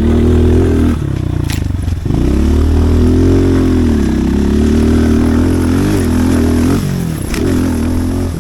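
Pit bike's small engine being ridden, revving up and easing off over and over so the pitch rises and falls, with a brief drop in revs about two seconds in. Two short sharp clacks sound, one early and one near the end.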